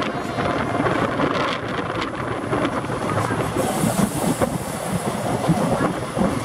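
Indian Railways express passenger coaches running on a curve, heard from an open coach door: a steady wheel-on-rail rumble with clatter over the rail joints. A brief high hiss comes about four seconds in.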